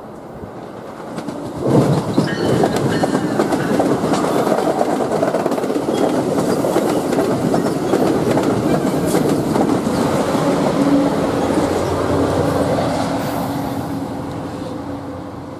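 An NJ Transit Multilevel push-pull commuter train passing close by, led by its cab car. The rumble rises sharply about two seconds in, and the wheels clack rapidly over the rails as the double-deck coaches go by. Near the end a steady hum comes in as the locomotive pushing at the rear passes, and the sound then fades.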